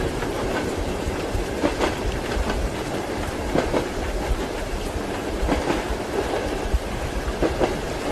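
Passenger train wheels running over rail joints: a steady rumble with pairs of clickety-clack knocks about every two seconds.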